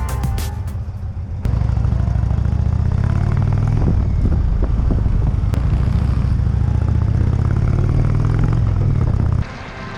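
Indian touring motorcycle running steadily at riding speed, a loud even drone that starts suddenly after a brief stretch of music and cuts off abruptly near the end.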